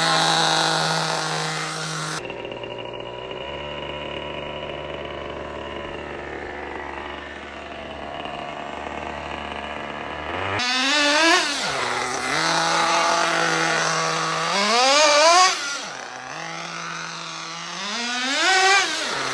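O.S. Max 30VG two-stroke nitro engine in a Losi 8ight 2.0 RC buggy idling steadily. In the second half it revs up in three sharp rising-and-falling blips, about four seconds apart.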